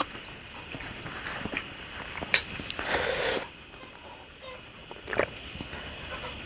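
Close-miked eating sounds: a mouth chewing and smacking food, with a few sharp clicks. A faint high pulsing tone runs underneath.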